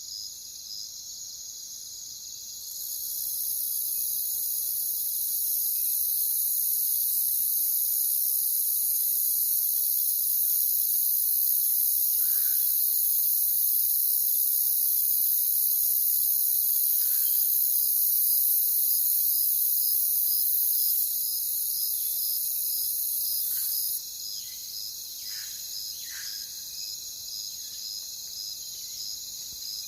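Night insect chorus: crickets trilling with a regular pulsing chirp, joined about three seconds in by a louder, higher-pitched insect buzz that drops near the end. A few short, falling chirps sound in the second half.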